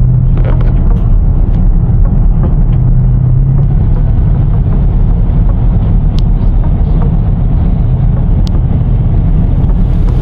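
A car engine running steadily with a low rumble, with two brief high squeaks partway through.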